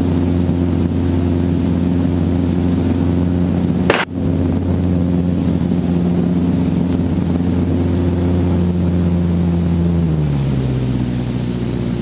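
Piston-engine helicopter running on the ground with its rotor turning, a steady engine and rotor drone; a sharp click comes about four seconds in, and near the end the pitch drops as the engine is brought back.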